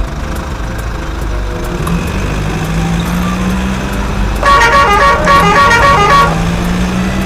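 Bus engine running steadily, with a burst of rapid horn toots about four and a half seconds in that lasts about two seconds and is the loudest sound.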